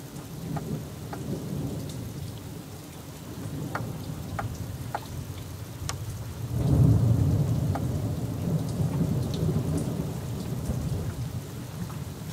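Thunder rumbling over heavy rain. A loud low roll of thunder breaks about halfway through and slowly fades. Scattered sharp ticks of raindrops sound close by.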